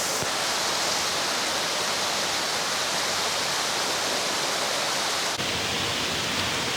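Steady, even rushing of falling water from a waterfall.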